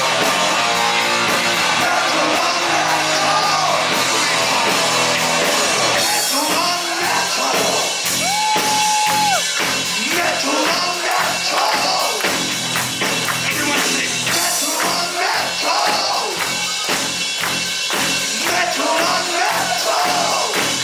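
Heavy metal band playing live: distorted electric guitars, bass and drums with singing. One note is held steady for about a second, about eight seconds in.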